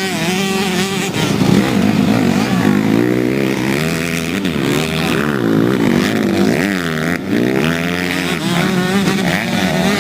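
Several motocross bikes' engines racing together, their pitches rising and falling as riders rev and shift through the course.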